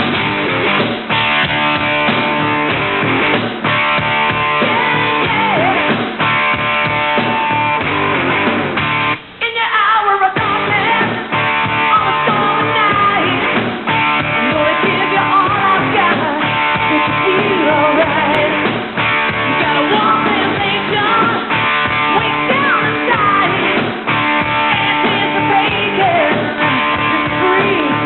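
Hard rock band playing: electric guitar over a steady drum beat, with a short break about nine seconds in, after which a wavering melodic line comes in. The sound is dull, with no treble, as from an old VHS tape recording of a TV broadcast.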